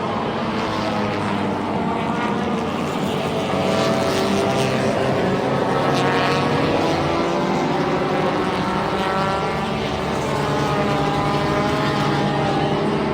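A field of front-wheel-drive race cars running at speed, several engines at once, their pitches rising and falling as the cars pass. The sound swells a little around the middle.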